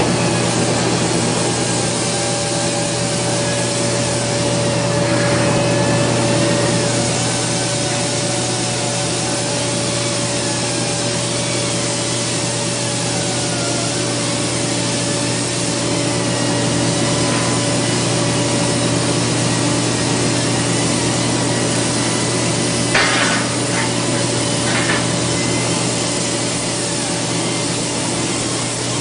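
TIG welding arc running steadily: a continuous buzzing hiss with a steady hum and tone, with a couple of brief crackles near the end.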